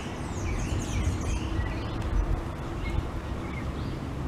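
Birds chirping in quick, rising and falling calls, busiest in the first second and sparser afterwards, over a steady low rumble.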